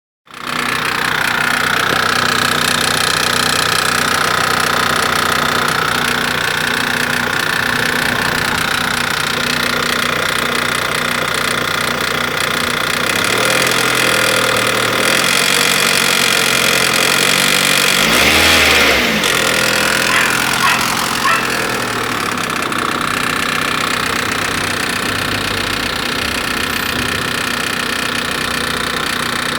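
Honda Civic 1.7 four-cylinder engine running steadily while making an unidentified strange noise that the owner is asking about. Its pitch briefly rises and falls a little past halfway, followed by a few short clicks.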